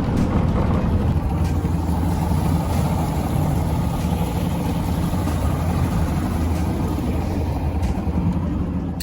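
90 HP Johnson outboard motor running steadily with the boat under way, a constant low engine drone under a steady rush of wind and water noise.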